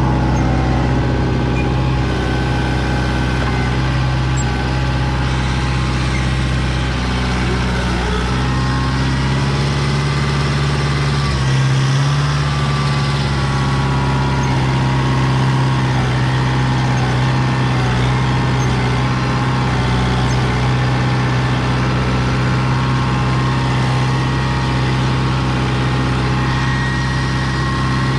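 Kubota M6040 tractor's diesel engine running steadily under light load while plowing snow with the loader bucket, its pitch shifting slightly about twelve seconds in.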